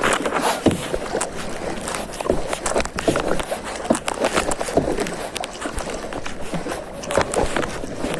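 Kayak paddling: the paddle blades splash and dip in the water in irregular strokes.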